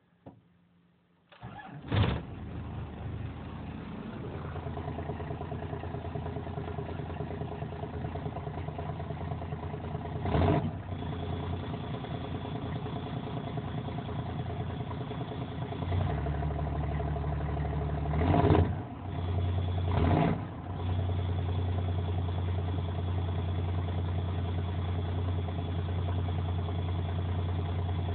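1993 Dodge W350's 5.9 L Cummins diesel cold-starting at about 15 °F on its grid heaters, with no block heater. After a click, it cranks briefly, fires about two seconds in and keeps running, with three short loud surges later on.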